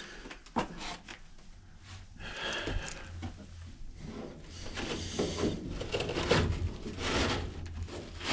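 Hands working around a furnace's filter area: a couple of sharp knocks, then rubbing and rustling as parts are handled, over a low steady hum.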